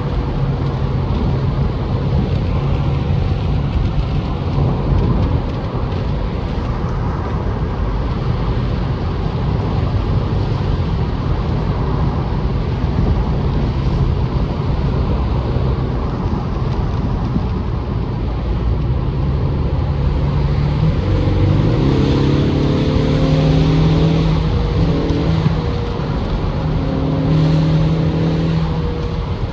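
2025 Ford Mustang EcoBoost's turbocharged 2.3-litre four-cylinder engine running under way, under a steady rush of road and wind noise. About two-thirds of the way through, the engine note rises and grows stronger as the car accelerates.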